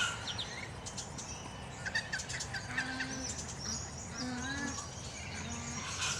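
Several birds calling at once: many short high chirps and quick repeated calls, with four or five short low calls in the second half.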